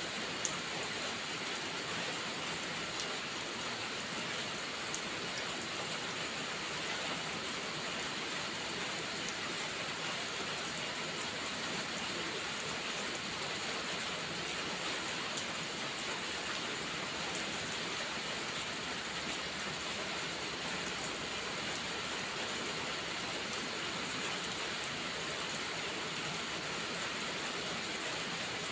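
Steady rain falling as an even, unbroken hiss, with a few faint scattered ticks.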